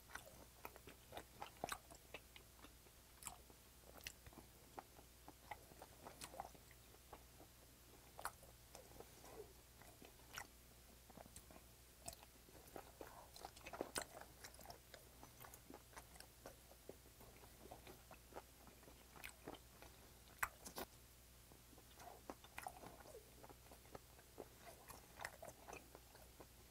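Faint, close-miked chewing of thick-cut raw swordtip squid sashimi with its surface lightly seared: irregular small clicks and smacks of the mouth working firm, chewy flesh.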